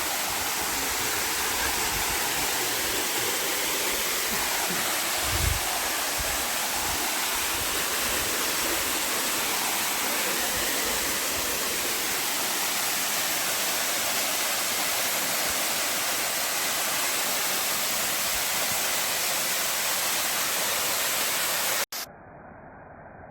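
Waterfall rushing: a steady, even roar of falling water with a brief low bump about five seconds in. Near the end it cuts off abruptly to a much quieter, muffled noise.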